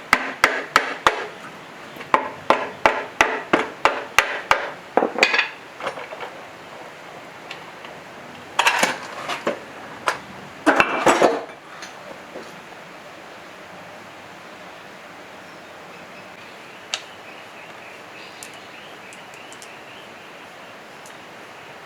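Metal engine parts knocking and clinking under hand tools. There is a quick run of sharp metallic knocks, about three a second, for the first six seconds. Two short clattering bursts follow, about nine and eleven seconds in.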